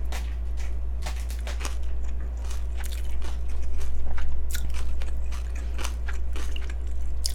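Close-miked chewing of a mouthful of yeolmu naengmyeon, cold noodles with crunchy young radish kimchi: a run of crisp crunches and wet chewing clicks, over a steady low hum.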